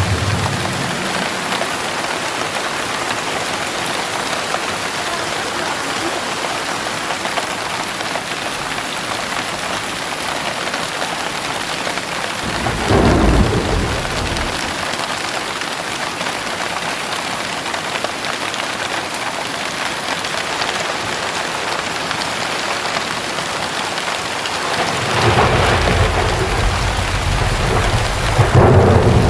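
Heavy rain pouring steadily, with a deep rumble of thunder about halfway through and another rolling in near the end.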